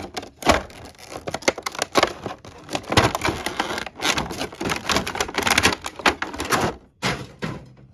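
Model-kit parts packaging being ripped open and handled: a dense run of irregular crackles, rustles and taps, easing off briefly near the end.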